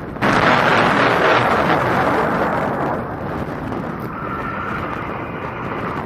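Loud rushing aircraft noise with wind on the microphone. It starts suddenly, eases after about three seconds, and settles into a steady rush with a faint high whine.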